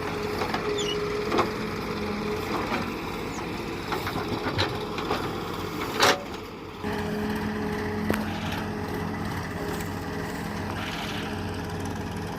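A tractor engine running steadily, with sharp knocks and cracks every few seconds, the loudest about six seconds in. The sound dips briefly just before seven seconds, then the engine hum carries on.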